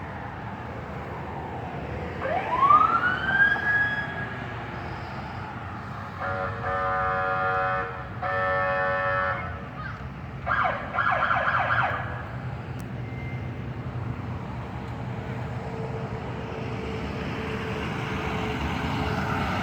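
Emergency vehicle siren rising quickly in pitch and holding for a couple of seconds, then three long, loud horn blasts, over a steady low rumble of passing engines.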